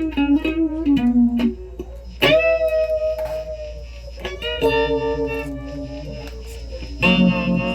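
Guitar played solo with a pick: a quick run of single notes, then chords struck about every two to three seconds and left to ring, over a steady low hum.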